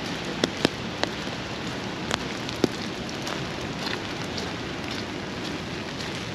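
Steady rain falling and hitting surfaces, with a few sharp close ticks in the first three seconds, the loudest about two and a half seconds in.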